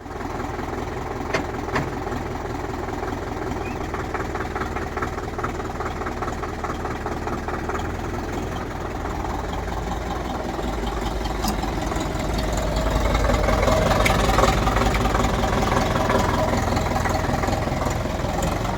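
Preet 6049 DI tractor's diesel engine running at idle, a steady low chugging that grows louder and heavier about two-thirds of the way through.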